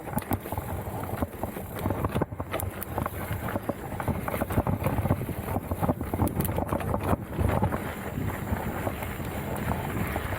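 Mountain bike riding over a rough dirt trail: wind buffeting the microphone, with frequent rattles and knocks from the bike over the bumps.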